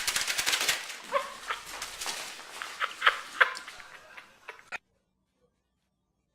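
A pet animal's short whimpering cries over a clatter of clicks and scuffs, breaking off suddenly about five seconds in.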